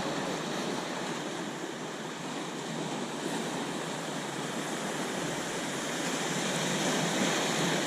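Ocean surf washing over the shoreline rocks: a steady rush of water noise that swells a little toward the end.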